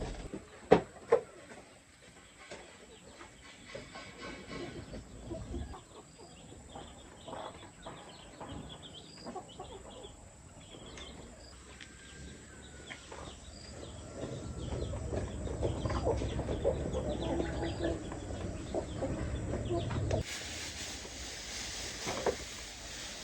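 Chickens clucking and calling, with a couple of sharp knocks about a second in. Near the end the sound changes to a broader, windy hiss.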